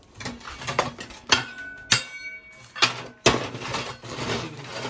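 A metal tool striking and scraping the welded steel plate: three sharp metallic clanks, each ringing briefly, with rough scraping between them.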